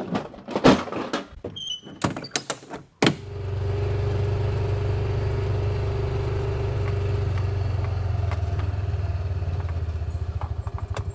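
A few sharp knocks and clatters, then from about three seconds in a quad (ATV) engine running steadily at a low drone, pulsing near the end.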